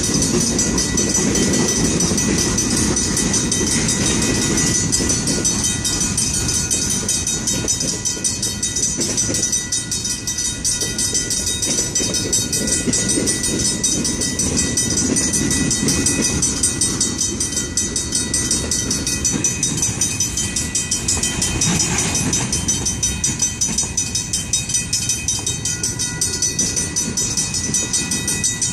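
Freight cars rolling slowly over the crossing with a steady rumble of wheels on rail, while the crossing's Griswold mechanical bells ring continuously in rapid strokes.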